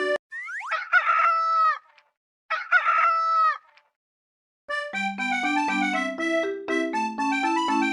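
A rooster crowing twice, the two crows separated by a short silence. A bouncy keyboard tune starts up again a little past halfway through.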